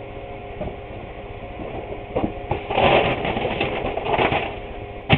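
A sheet of newspaper rustling and crinkling as it is handled and spread out, over a steady electrical hum, with a few sharp knocks near the end.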